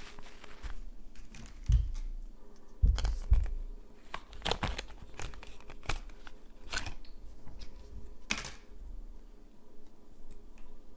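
Manicure items being handled on a tabletop: scattered rustles and small clicks, with two soft thumps a couple of seconds in and another three about a second apart.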